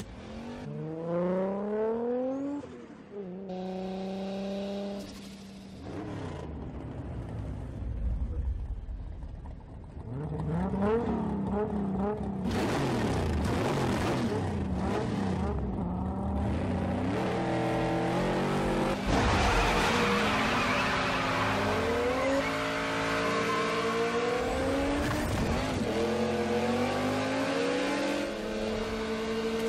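Film sound of car engines revving hard, their pitch climbing and dropping again and again through gear changes. From about twelve seconds in, the Toyota Supra and a supercharged muscle car race at full throttle under a loud, steady rushing noise.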